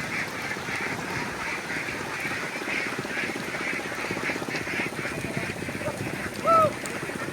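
A large flock of domestic ducks quacking continuously, a dense chatter of many overlapping calls. One louder short call stands out about six and a half seconds in.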